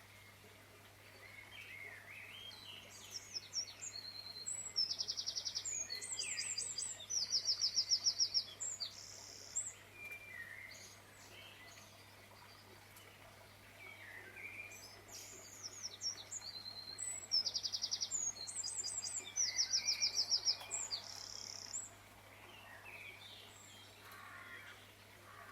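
Birdsong: a run of chirps and rapid high trills lasting several seconds, then the same run of phrases again about 13 seconds later, with quieter scattered chirps between.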